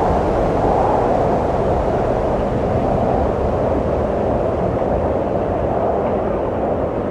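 Steady wind blowing, a dense rushing noise that swells and eases slightly, easing a little near the end.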